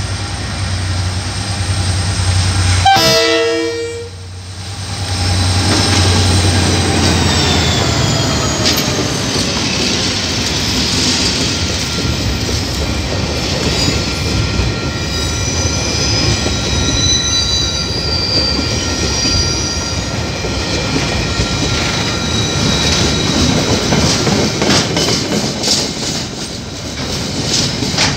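KiwiRail diesel freight locomotives approaching with a steady low engine hum, a short horn blast about three seconds in. Then a long string of container wagons rolls past with a steady rumble, some high-pitched tones partway through, and a run of clicks over the rail joints near the end.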